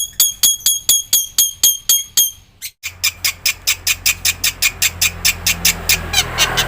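Black-winged myna (jalak putih) masteran song: a run of sharp, ringing notes about five a second, a brief break a little before halfway, then a faster string of short notes about eight a second over a low hum.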